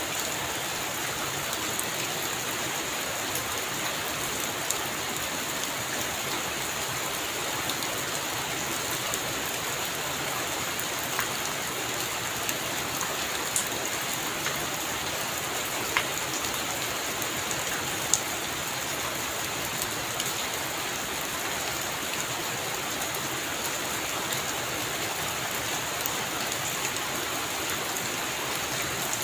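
Heavy rain falling steadily in an even hiss, with now and then a single louder drop striking close by.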